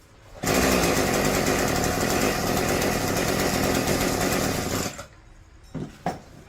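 A power tool runs loudly with a rapid rattle for about four seconds, then cuts off; two short knocks follow.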